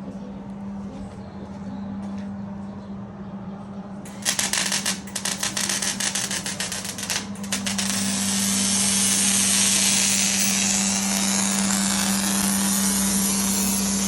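Shop power tool working on exhaust pipe. A few seconds in comes a burst of rapid, irregular crackling lasting about four seconds. It is followed by a loud, steady, high-pitched grinding noise, all over a constant low hum.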